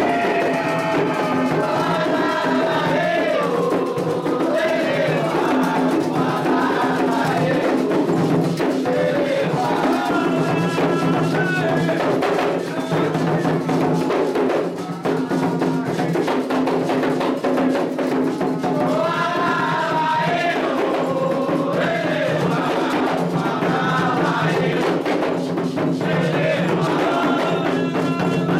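Candomblé ritual music: singing over a dense, steady beat of atabaque hand drums and struck percussion.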